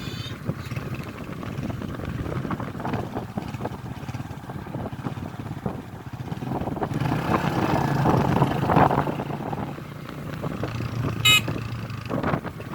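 Road vehicle engine running while driving, with wind buffeting the microphone; a brief high-pitched toot about eleven seconds in.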